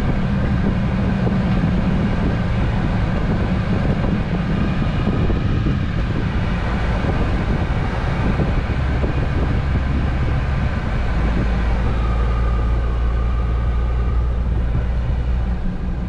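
Scania Next Generation truck driving along the road: a steady diesel engine drone with tyre and road noise. The low engine note grows stronger a little past halfway.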